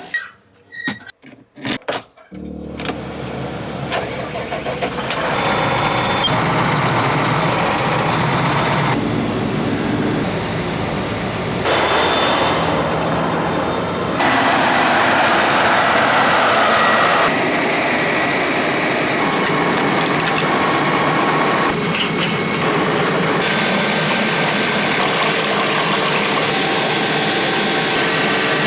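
A few clicks, then an engine starts about two seconds in and runs steadily. Its sound changes abruptly several times.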